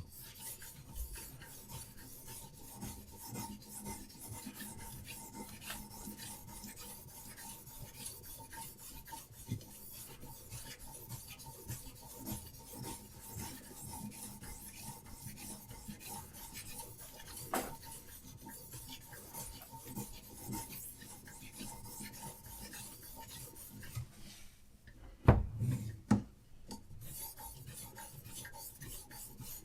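Diamond sharpening stone on a Hapstone RS guided sharpener, stroked rapidly and steadily along a steel knife blade's edge with a gritty rasping scrape. Near the end the strokes stop briefly, there are a few loud knocks, and then the scraping starts again.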